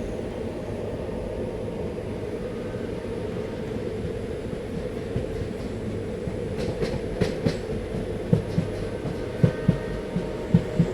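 Train running along the rails with a steady rumble of wheels on track. A quick run of sharp clicks comes about two-thirds of the way through, and short low clacks from the wheels passing rail joints come in the last few seconds.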